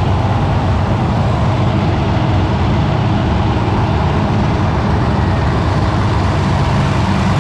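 A monster truck's engine running loud and steady with a low, even rumble.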